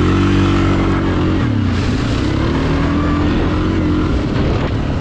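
Suzuki KingQuad ATV engine held at high revs at full throttle, near 40 mph through mud and water, its pitch dipping briefly and climbing again about a second and a half in. A hiss of splashing water and wind rises over it from about two seconds in.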